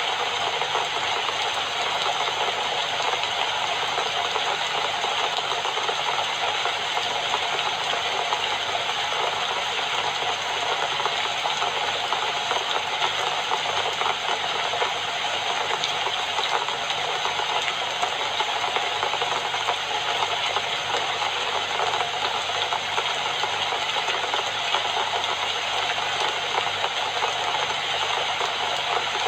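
Steady rain falling, an even, continuous patter without let-up.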